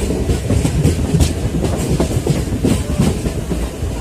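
Indian Railways train running past at close range, its wheels clacking over rail joints over a heavy rumble.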